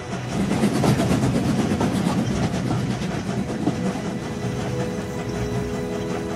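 Train running along the track, a steady noise of wheels on rails. A few faint steady tones join in about five seconds in.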